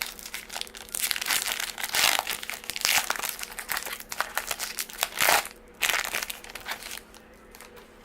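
A foil-wrapped trading card pack, a 2003 Bowman Draft Picks and Prospects baseball card pack, being torn open and its wrapper crinkled and crumpled in the hands; the crinkling dies away near the end.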